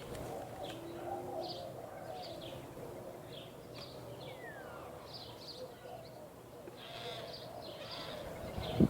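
Small birds chirping in short high calls, scattered throughout, over a faint steady outdoor background.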